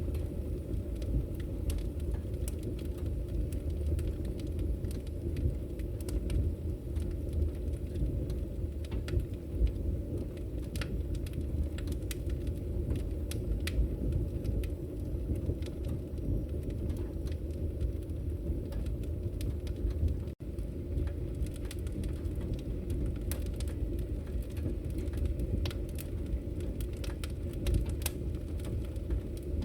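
Logs burning in a fireplace: a steady low rumble of flames with scattered sharp crackles and pops. The sound briefly cuts out about twenty seconds in.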